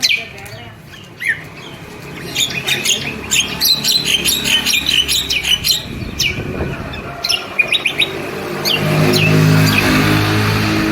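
A caged songbird chirping and calling in quick, sharp notes. Near the end a low, steady engine hum comes in and becomes the loudest sound.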